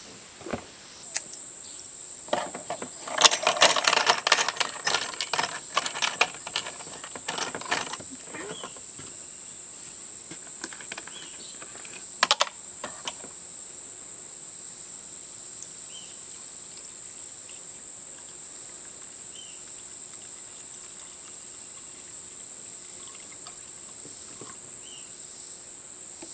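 Small metal pieces clattering and clinking together for several seconds, then a brief double click near the middle. A steady high chirring of crickets carries on underneath.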